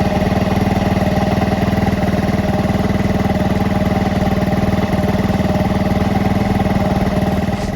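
Honda Dax ST50's 49 cc single-cylinder four-stroke engine idling steadily, with an even, unchanging beat.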